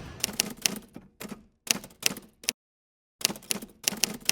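Typewriter sound effect: quick runs of sharp key clacks in short bursts, broken by a moment of dead silence about halfway through.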